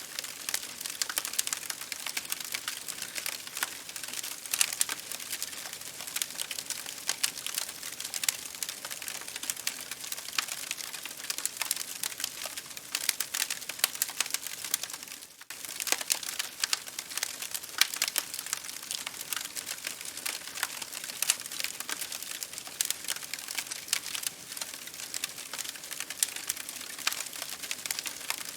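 Campfire crackling steadily: many small sharp pops and snaps over a soft hiss, with a brief drop-out about halfway through.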